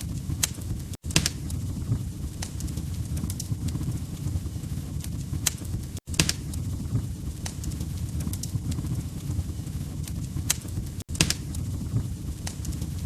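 Log fire crackling: irregular sharp pops and snaps over a steady low rumble of burning. The sound cuts out for an instant about every five seconds.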